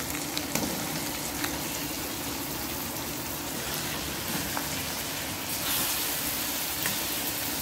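Raw minced meat and masala sizzling in hot oil in a karahi, a steady rain-like hiss with a few light clicks of the spatula. About five and a half seconds in the sizzle gets louder as the mince is broken up and stirred into the oil.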